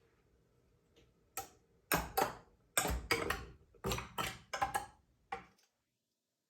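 A quick, irregular run of about a dozen sharp clicks and knocks over some four seconds, which then stops abruptly.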